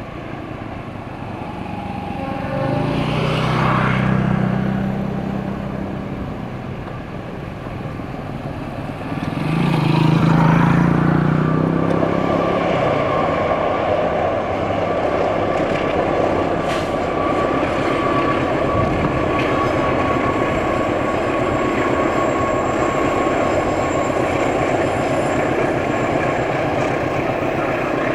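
Diesel locomotive-hauled passenger train passing. Two long, low horn blasts come a few seconds in and again about nine seconds in. After that the wheels keep up a steady rumble on the rails, with a thin steady ring over it.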